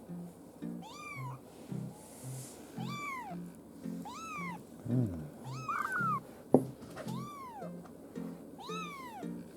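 A 24-day-old kitten mewing repeatedly, six high calls that each rise and fall, about one every one and a half seconds. A sharp click sounds about two-thirds of the way through.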